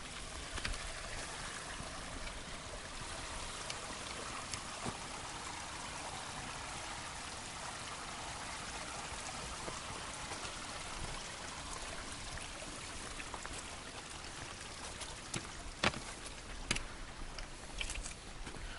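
Flowing water rushing steadily, as from a stream or waterfall, with a few sharp clicks or knocks in the last few seconds.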